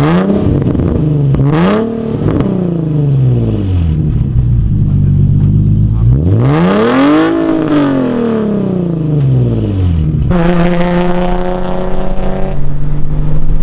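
Infiniti G37's V6 running through a test-pipe (catless) setup with an ISR exhaust, revved: two quick blips near the start, one long rev up and back down in the middle, then held steady at higher revs for a couple of seconds near the end.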